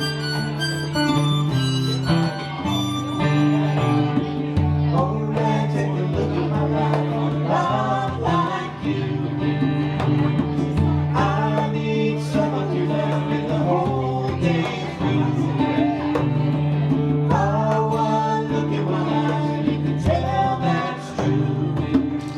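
Live acoustic music: guitar with a wavering harmonica or sung melody over sustained low notes.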